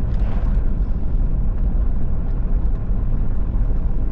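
Steady low rumble of a truck's engine and tyres heard from inside the cab while driving, with a brief hiss just after the start.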